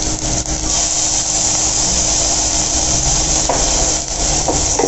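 Chopped onions frying in oil in a stainless steel pressure cooker: a steady sizzle, with a few light knocks near the start and again near the end.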